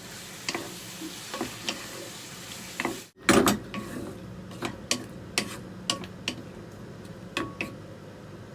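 Chicken, eggplant and bell pepper frying in a pan with a steady sizzle, while a utensil stirs and knocks against the pan in irregular sharp clicks. There is a brief break about three seconds in, and the clicks are louder after it.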